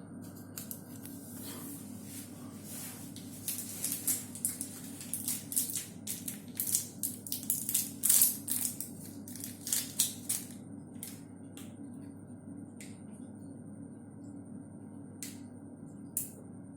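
Plastic packaging of a dishwasher tablet crinkling and crackling as it is handled and opened for several seconds, followed by a few scattered sharp clicks, over a steady low hum.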